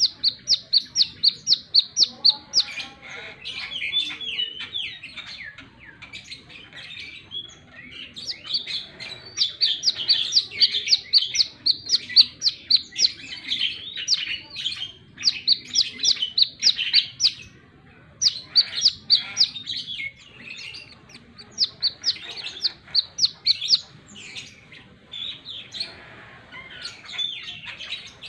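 Brown-throated sunbird (kolibri kelapa) giving its rapid 'wiceh' call: runs of sharp, high chips, several a second, in bursts of a few seconds with short pauses between them, mixed with lower twittering notes.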